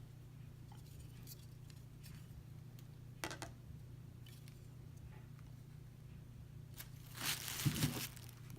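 Ornament packaging being handled: a single light click about three seconds in, then a second or so of rustling and crinkling near the end, over a faint steady low hum.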